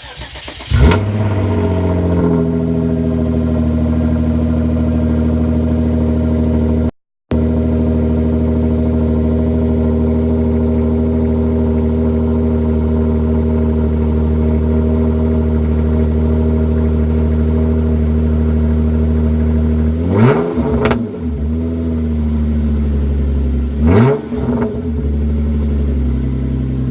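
Genesis engine cold-starting: a brief crank, a loud flare as it catches about a second in, then a steady fast idle. Near the end the throttle is blipped twice, the engine rising and falling quickly each time.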